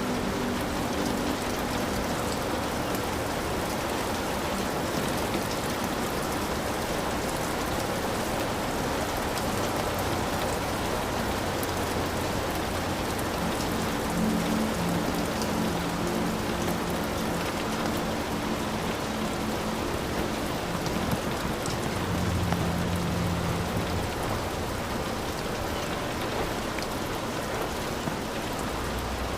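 Heavy rain falling steadily in a dense hiss, with low rumbles a few times, near the start, around the middle and later on, typical of distant thunder in a thunderstorm.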